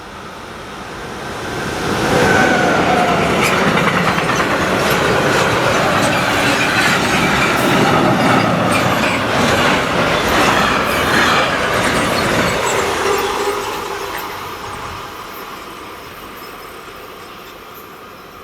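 A train passing close by, its wheels clattering over the rails. It swells up about two seconds in, stays loud for about eleven seconds, then fades away.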